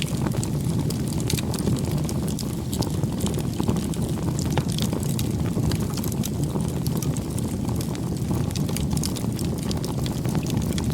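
Campfire burning: a steady low rush of flames with frequent small pops and crackles of burning wood scattered throughout.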